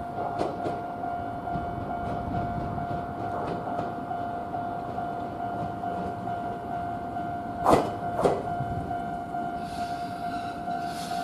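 Electric passenger train drawing into the station past a stopped freight train, with a steady tone sounding throughout. Two sharp knocks come about half a second apart two-thirds of the way in, and a high hiss builds near the end as the train nears.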